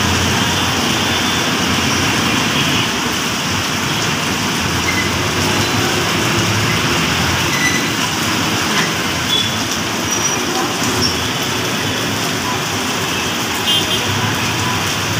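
Steady noise of busy road traffic mixed with pouring rain.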